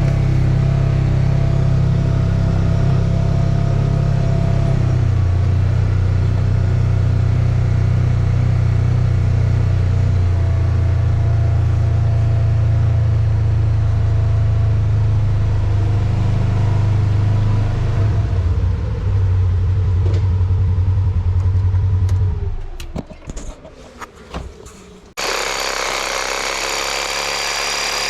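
A motor vehicle's engine and road noise running steadily, heard from on board. About 22 seconds in the engine sound winds down and falls away. A few seconds later a brighter, steady running noise cuts in abruptly.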